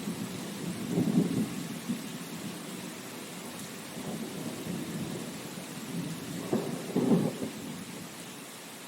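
Steady rain with low rumbling swells, loudest about a second in and again near seven seconds.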